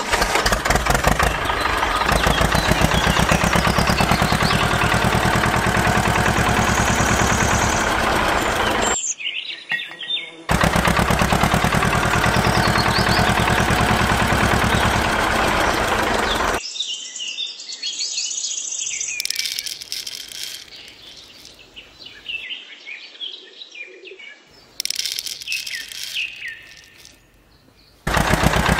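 Diesel tractor engine running with a rapid, even chug, cutting out about nine seconds in and starting again a second and a half later, then stopping about halfway through. Birds chirp over a quieter background after that, and the engine comes back near the end.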